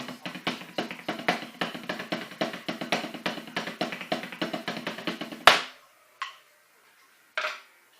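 Snare drum played with sticks in a fast, steady run of strokes with accents, ending on one loud final hit about five and a half seconds in. Two short sounds follow.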